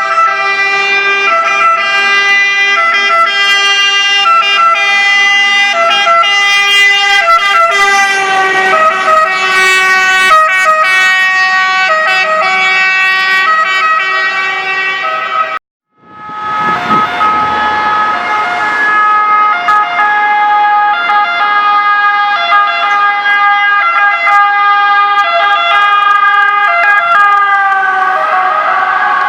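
Italian two-tone emergency sirens of a MAN fire engine and a medical car sounding together, their alternating high-low tones overlapping. The sound cuts out suddenly about halfway through, then returns, and near the end the tones slide down in pitch as a vehicle passes.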